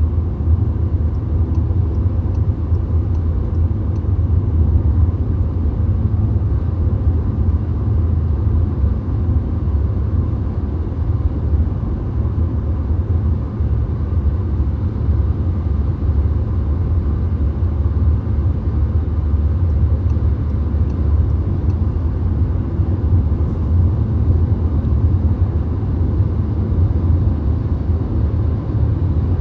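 Steady low rumble of a VW Golf cruising on a motorway, heard from inside the cabin: tyre, road and engine noise that stays even throughout.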